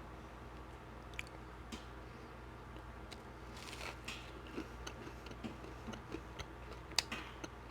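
Faint chewing and mouth sounds of a person eating a cinnamon-sugar donut, with scattered soft smacks and clicks. There is a short rustle a little before the middle and a sharper click near the end.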